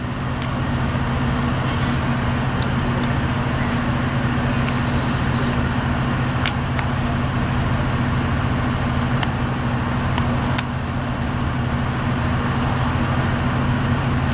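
A motor vehicle's engine idling steadily, a low even hum, with a few faint clicks over it.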